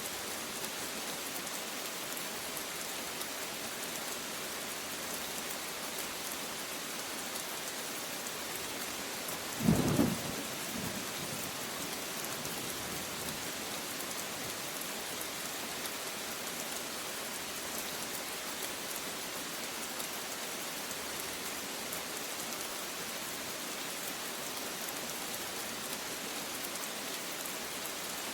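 Steady heavy rain with a single short, loud thunderclap about ten seconds in.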